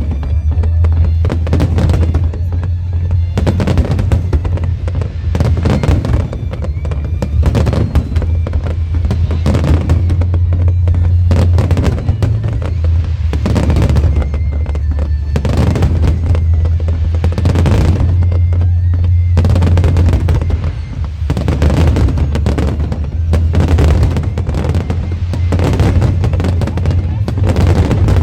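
Fireworks display: shells bursting in rapid, repeated bangs over loud music with a heavy, steady bass.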